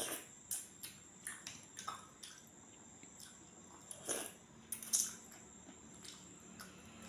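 A person eating rice and chicken curry by hand, chewing with a string of short, wet mouth clicks and squishes. The loudest ones come a little after four and five seconds in.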